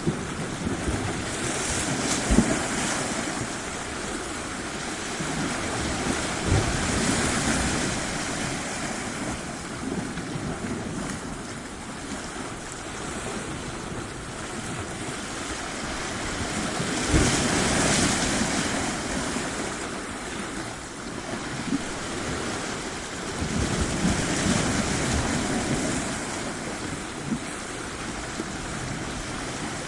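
Ocean waves breaking and washing onto a shore. The noise swells and falls back every several seconds, with the biggest surge a little past the middle.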